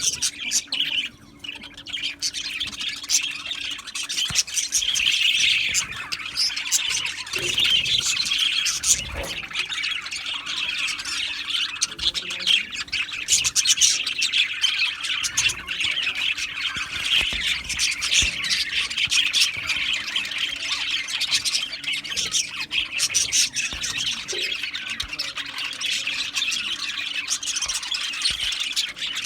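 A colony of budgerigars chattering, chirping and squawking together in a dense, unbroken flock chorus, with a brief lull about a second in.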